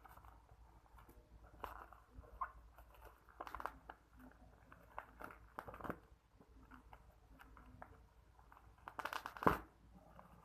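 Faint, scattered handling noises of unboxing a phone: soft clicks, taps and rustles of the box and packaging, with a louder burst of rustling about nine seconds in.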